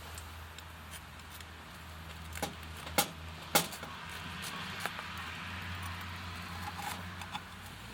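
A vehicle engine idling with a low, steady hum, with a few sharp clicks and knocks over it, the loudest two about three and three and a half seconds in.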